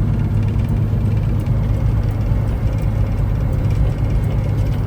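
Peterbilt 379 semi truck's diesel engine running steadily while driving, a constant low drone with road noise.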